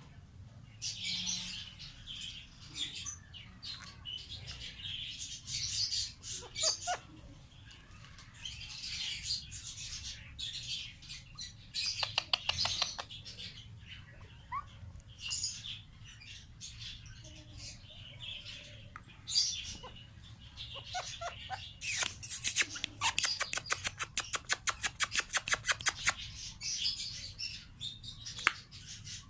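Pet parrots chirping in many short, high calls. About two-thirds of the way in comes a fast run of sharp clicks, roughly eight a second, lasting a few seconds.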